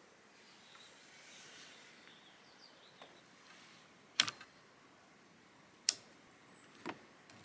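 Faint background hiss broken by three sharp clicks in the second half, the first a quick double click.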